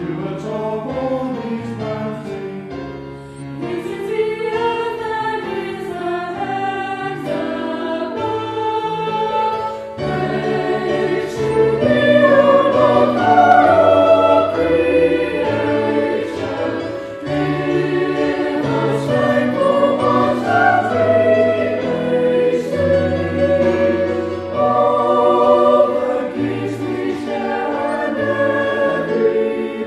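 A choir singing sacred music, with sustained low accompanying notes moving in steps beneath the voices.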